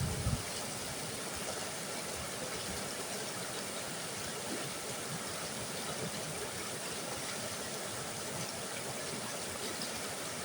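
Mountain river rushing steadily, an even, unbroken water noise, with a few brief low rumbles in the first half second.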